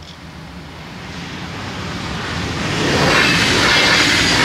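Deutsche Bahn double-deck Intercity train approaching and passing over a level crossing. The rush of its wheels on the rails grows steadily louder and reaches full strength about three seconds in as the coaches roll by.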